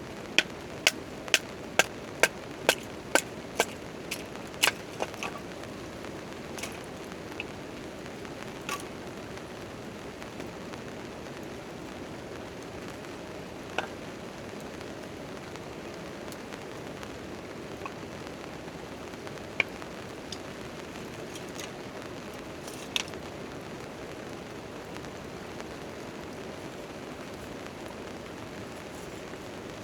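Steady rain falling on a tent tarp, with a campfire crackling now and then. Near the start, a run of sharp, evenly spaced knocks comes about two a second and stops a few seconds in.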